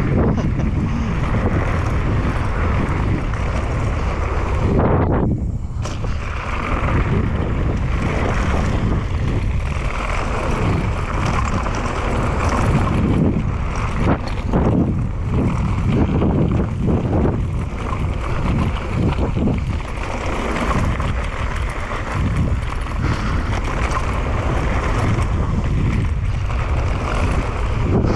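Wind rushing over the microphone and a mountain bike's tyres and frame rattling over a rough dirt trail on a fast descent, with many small knocks from bumps and a brief lull about five seconds in.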